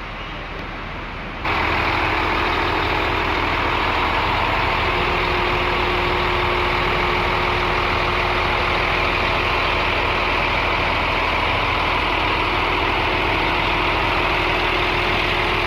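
Scania K360iB bus diesel engine, a five-cylinder, idling steadily. About a second and a half in, the sound suddenly becomes much louder and brighter, then holds steady.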